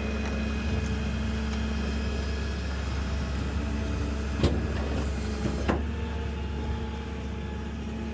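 Vehicle engine idling steadily, with two sharp clunks a little over a second apart near the middle.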